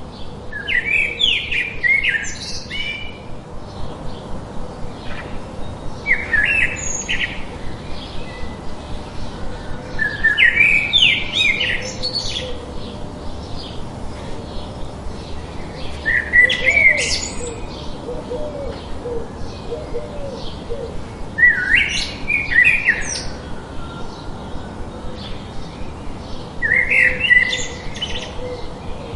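A songbird singing a short, varied phrase about every five seconds, six phrases in all, over a steady white-noise hiss.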